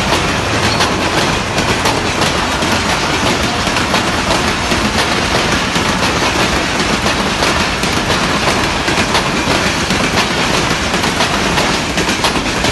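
Coaches of an express passenger train running past at speed: a steady loud rush of wheel and rail noise with rapid clickety-clack over the rail joints.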